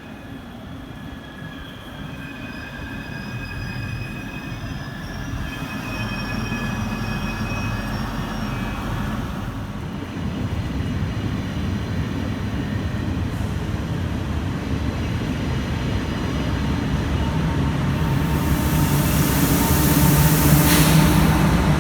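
A train moving through the station, its wheels squealing with several thin high tones over a rumble that grows steadily louder. A loud hiss starts about three seconds before the end.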